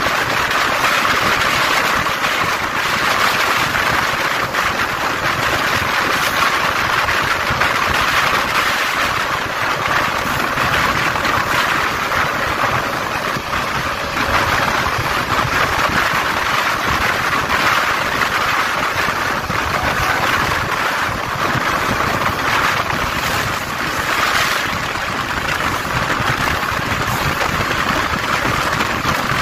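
Passenger train running at speed, heard from an open window beside the coaches: a steady, loud rush of air and wheels on the rails.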